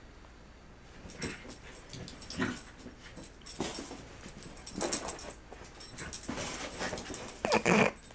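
A puppy making short, irregular sounds in a series of bursts, the loudest just before the end.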